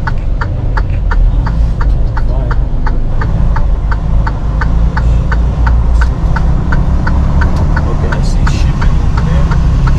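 Semi-truck's diesel engine running with a steady low drone heard from inside the cab, with the indicator flasher clicking evenly about three times a second.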